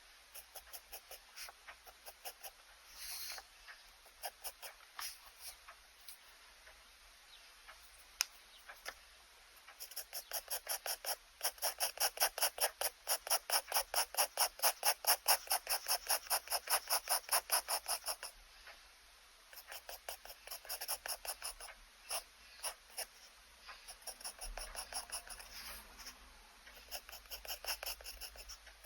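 Pen nib scratching across sketchbook paper in short strokes, then from about ten seconds in a fast, even run of back-and-forth hatching strokes, about six a second, for some eight seconds, before easing back to scattered strokes.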